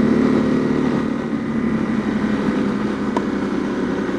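Honda CRF250L's single-cylinder engine running steadily as the dual-sport motorcycle rides along at an even speed.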